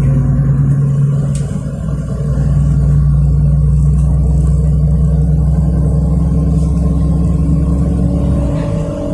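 City bus engine and drivetrain heard from inside the passenger cabin while driving: a steady low hum that eases briefly about two seconds in, then picks up again, and shifts lower near the end.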